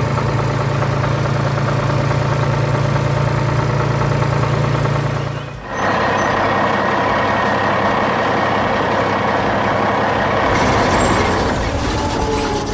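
Heavy vehicle engine running steadily, a truck or construction-machine engine sound. About halfway through it dips briefly and gives way to a different, higher-pitched engine sound.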